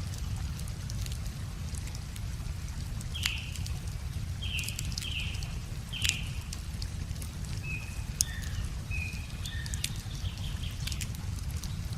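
A wood fire crackling, with sharp irregular pops, over a steady low rush. Small birds chirp in short repeated calls throughout.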